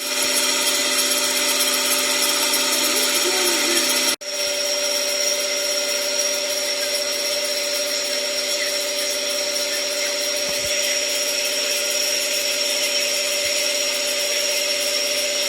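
Three-phase electric motor, star-connected at 26 V, running steadily at about 950 rpm under its controller, with a whine of several steady tones over a rough rasping noise from its dry bearings. The sound breaks off for an instant about four seconds in and resumes with its tones slightly shifted.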